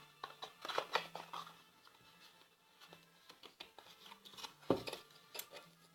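Small clicks, taps and scrapes of craft-kit parts being handled and fitted together on a table, with one louder knock a little before the end.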